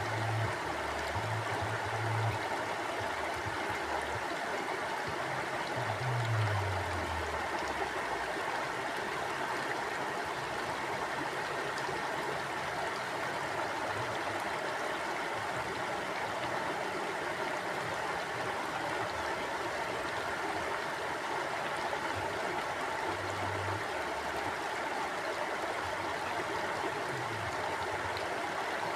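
Stream water flowing steadily over rocks in an even, unbroken rush. A few brief low hums sit underneath, one about six seconds in sliding down in pitch.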